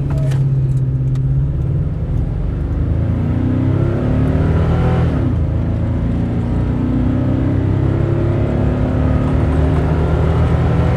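Stock Toyota Tundra's 5.7-litre V8 under hard acceleration, its pitch climbing, dropping at an upshift about five seconds in, then climbing again through the next gear.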